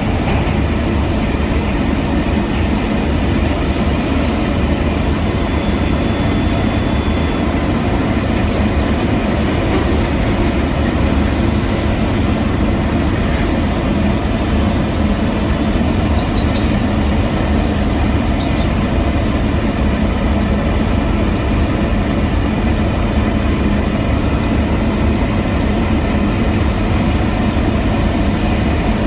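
Heavy diesel construction machinery running steadily, a loud continuous engine rumble with no break or change.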